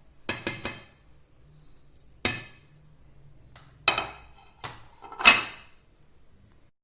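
Spoons and small dishes clinking and knocking against a mixing bowl as spices are tipped in: a short cluster of clatters, then single knocks spaced a second or so apart, the loudest about five seconds in.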